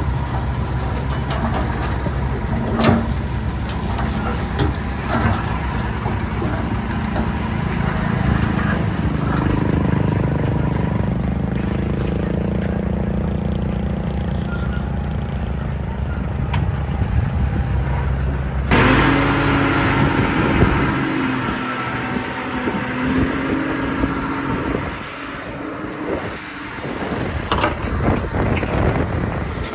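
Heavy diesel earthmoving machinery, a bulldozer and dump trucks, running steadily with occasional knocks. About two thirds of the way through, the sound changes abruptly to a different engine note.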